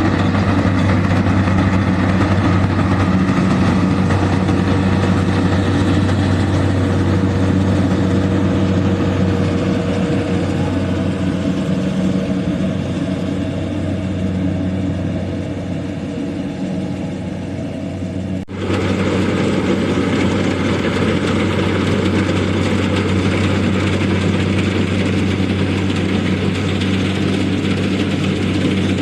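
Rice harvester's engine running steadily with a deep hum. It eases off slightly, then breaks off abruptly about two-thirds of the way through and comes straight back louder.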